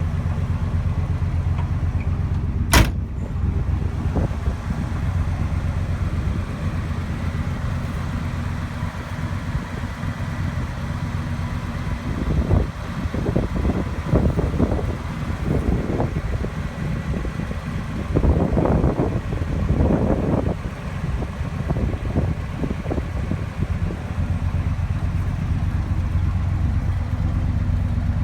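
1974 Chevrolet Malibu engine idling with a steady low rumble. There is a single sharp knock about three seconds in, and a stretch of irregular louder sounds over it in the middle.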